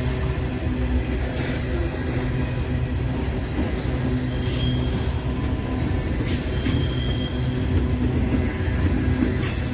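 Freight train rolling past with a steady low rumble and the even drone of a diesel locomotive engine. Short high-pitched wheel squeals break through a few times, about every couple of seconds.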